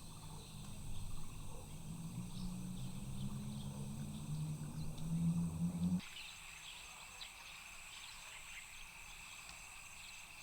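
Steady chorus of insects, with a low droning hum that slowly rises in pitch and cuts off abruptly about six seconds in. After that, short insect chirps stand out more clearly.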